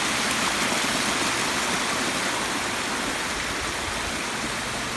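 Water from a large landscaped rock waterfall cascading steadily down a long hillside run into a pondless basin, a strong, even rushing that eases slightly toward the end.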